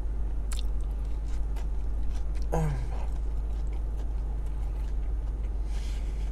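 A person chewing a burger with mouth clicks and lip smacks as he licks his fingers, and one short falling "mm" hum about two and a half seconds in, over a steady low hum inside the car.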